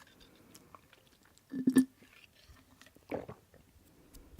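Close-miked eating sounds: someone chewing, with two louder bites or chews about a second and a half apart amid faint mouth clicks.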